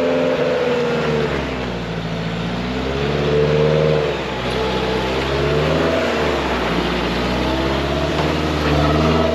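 An off-road vehicle's engine revving up and down several times under load, its pitch rising and falling in surges.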